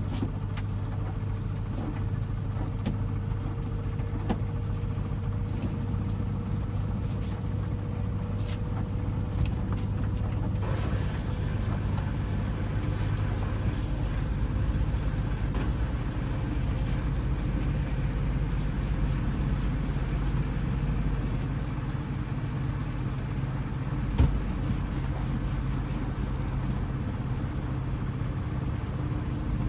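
Hoover washing machine running a 60°C Mixed wash: a steady low motor hum from the drum drive, with a few light clicks and one sharp knock near the end.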